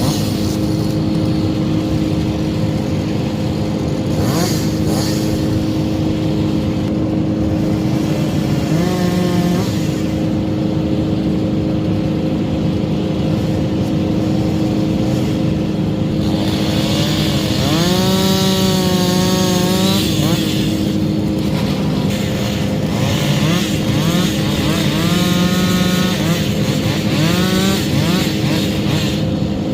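Steady drone of running machinery, over which a chainsaw revs up, holds high and drops back several times: briefly about nine seconds in, longest from about eighteen to twenty seconds, and again near twenty-five seconds, as pine limbs are cut.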